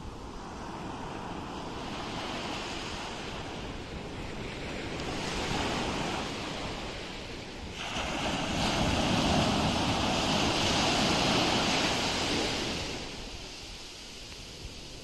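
Ocean waves washing onto a shore, one surge after another. A small wave swells and fades, then a bigger one breaks suddenly about halfway through, the loudest moment, and hisses away over a few seconds.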